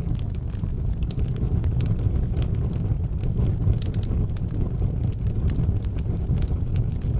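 Fire burning in an outdoor fireplace: a steady low rumble of flame with frequent sharp crackles and pops scattered throughout.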